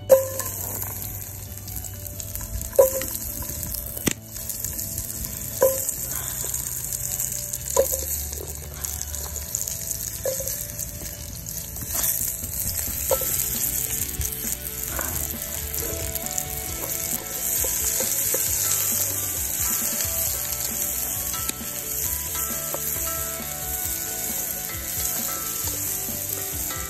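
Hot oil sizzling steadily in a large pot over a wood fire as chopped onion and lemongrass fry in it, the sizzle growing louder past the middle; a wooden spatula stirs them near the end.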